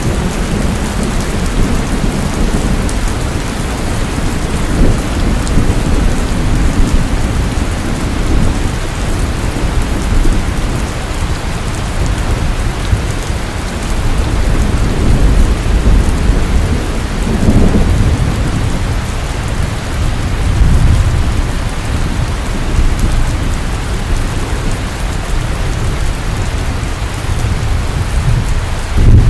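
Steady rain falling, with a deep low rumble underneath that swells and fades several times.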